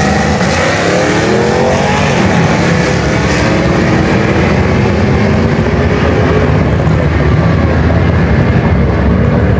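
Drag-racing pickup truck and car launching off the start line at full throttle and accelerating away, the engine pitch climbing, dropping at a gear change about two seconds in, then holding as they run down the strip.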